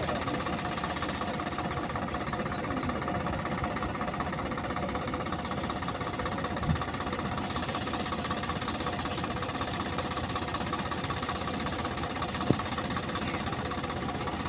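Diesel tractor engine running steadily with a hard knocking clatter. Two short sharp knocks stand out, one about halfway through and one near the end.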